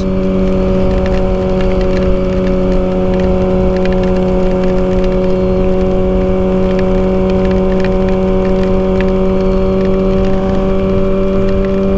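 Kawasaki ZX-6R inline-four engine running at a steady, held speed while cruising, its pitch unchanging, with a rushing noise underneath.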